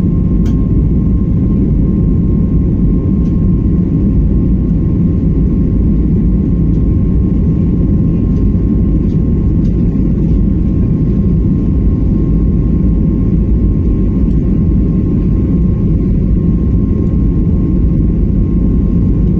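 Steady low vehicle rumble with a faint steady hum above it, unchanging throughout.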